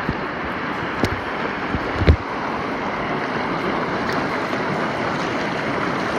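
Rushing river water as a raft goes through a small splashy diversion drop: a steady wash of water, with a couple of thumps about one and two seconds in, the second the loudest.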